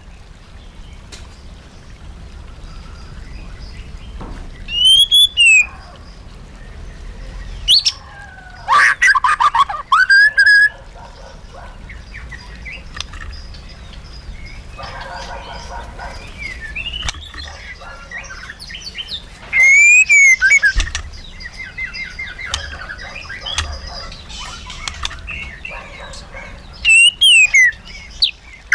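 White-rumped shama singing: loud whistled phrases with sweeping pitch glides come in short bouts every few seconds, with softer twittering notes in between.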